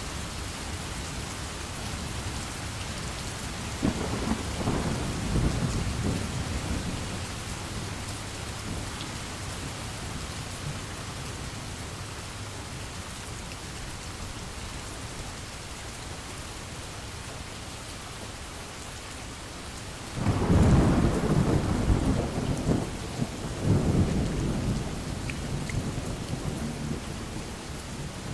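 Steady heavy rain with two rolls of thunder, one about four seconds in and a louder, longer one about twenty seconds in.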